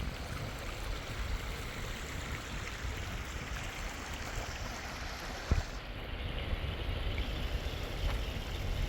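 Wild river water rushing steadily, with a low rumble underneath. A single short knock comes about halfway through.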